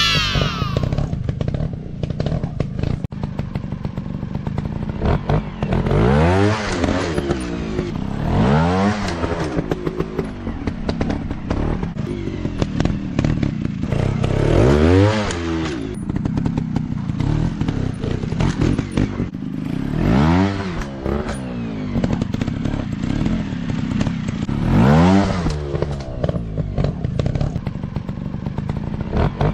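Dirt-bike engines running throughout, with about five sharp rises and falls in pitch a few seconds apart, as the bikes rev or pass close by. Light clattering is heard under the engines.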